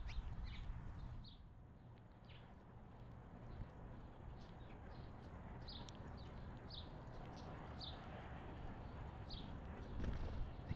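Small songbirds giving short, high chirps, scattered irregularly and sometimes in quick pairs, over a low outdoor rumble.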